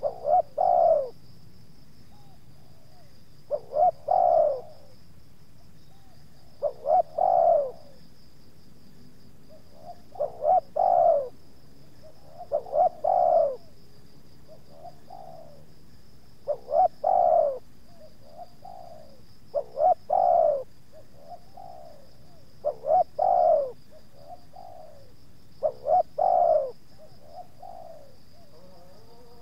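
Spotted dove (tekukur) cooing over and over, about ten phrases, each a couple of short notes and then a longer coo, repeating roughly every three seconds.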